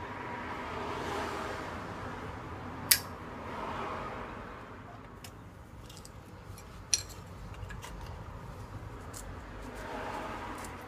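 Small metal parts clinking and clicking as they are handled, with two sharp clicks, the first about three seconds in and the second about four seconds later, over a soft rushing noise that swells and fades.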